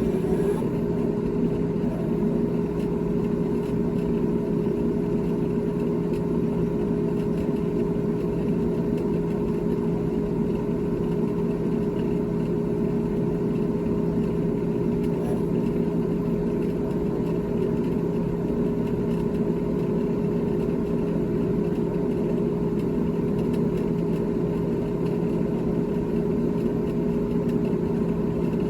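GE GTH18XCTZRBB refrigerator running, a steady mechanical hum with a low drone and a higher steady tone above it, unchanging throughout.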